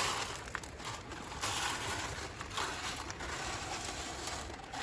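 Soft, uneven rustling and scraping of gravel and small rocks shifted by hand on a sifting screen, with a few small clicks of stone on stone.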